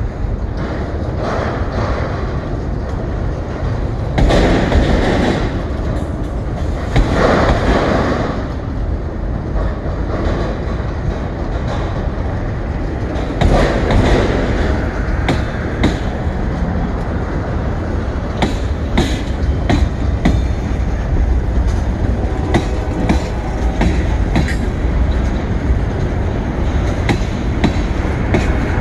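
Freight train cars rolling past: a steady low rumble of steel wheels on rail, with louder rushing stretches a few seconds in and again near the middle. Later come many sharp clicks and clacks as the wheels cross the rail joints.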